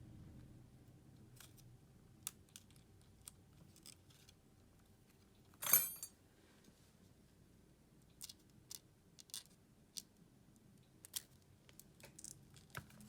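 Scattered small clicks and taps of hand tools and small parts being handled during a smartphone teardown, with one louder, brief scraping burst about six seconds in.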